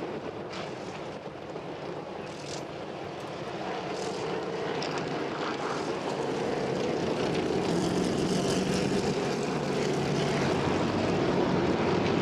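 Engines of a field of modified race cars running slowly under caution, a steady drone that grows louder over the middle of the stretch as the pack comes nearer.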